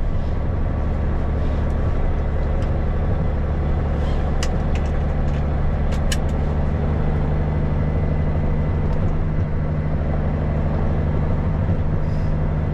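Dump truck engine running steadily under way, with road noise, heard from inside the cab. A few light clicks or rattles sound about four to six seconds in.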